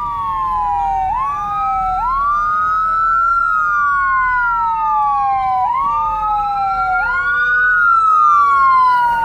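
Two emergency-vehicle sirens, from a responding rescue squad and fire engine, wailing out of step with each other. Each rises quickly and falls slowly over several seconds.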